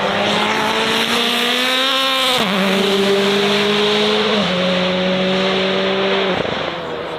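A high-performance car engine accelerating hard and rising in pitch. It shifts up with a sudden drop in pitch about two and a half seconds in and again about four and a half seconds in, then the throttle lifts off near the end.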